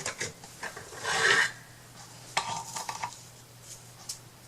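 Craft supplies being handled and rummaged through on a work table: scattered clinks and taps, with a louder rustling scrape about a second in.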